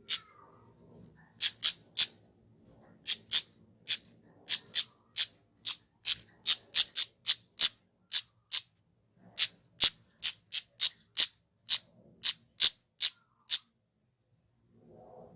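A kemade flowerpecker calling a long series of short, sharp, very high notes, two to three a second in loose runs, stopping shortly before the end.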